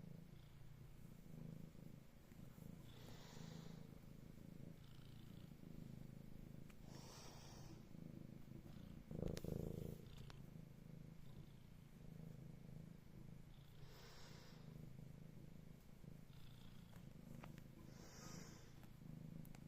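Domestic cat purring, a faint steady low hum with soft breathy hisses every few seconds. A brief louder bump comes about nine seconds in.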